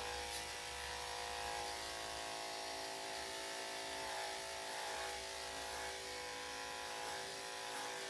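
Electric dog grooming clippers running with a steady motor hum, with small swells in loudness now and then.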